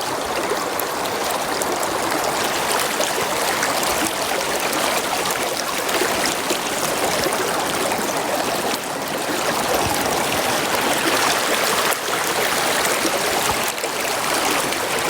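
Shallow brook running steadily, a continuous rush of flowing water.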